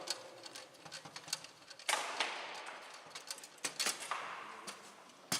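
Bonzini table-football play: the ball clacking against the players' figures and the table walls, with rods knocking. There is a run of light clicks, with several sharp, louder knocks about two seconds in, near four seconds and just before the end.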